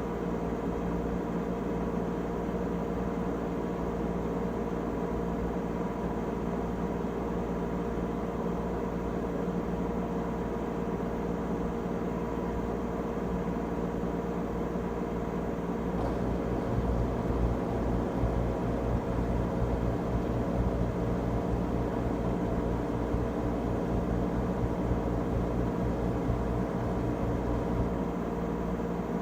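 LG Tromm WD-CR101C front-loading drum washing machine running through its quick-wash cycle: a steady hum with several steady tones over a low rumble. About halfway through, the low rumble grows and the sound gets a little louder, easing back near the end.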